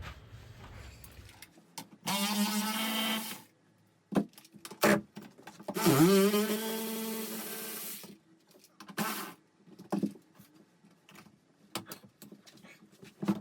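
Handheld power driver running in two bursts, one of about a second and a half and a longer one of about two seconds, unbolting the seat back. Sharp clicks and knocks of tools and metal parts fall in between and after.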